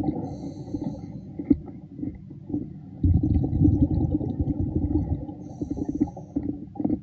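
Muffled underwater rumble of water moving against the camera, with scattered small clicks and crackles and a louder surge lasting a couple of seconds around the middle.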